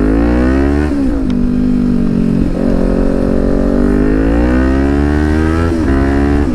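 Kawasaki Ninja 400's 399 cc parallel-twin engine, breathing through a loud Akrapovic exhaust with the dB killer removed, accelerating hard from a pull-away. The engine note climbs in pitch through the gears and drops back at each upshift: about a second in, again around two and a half seconds, and near six seconds.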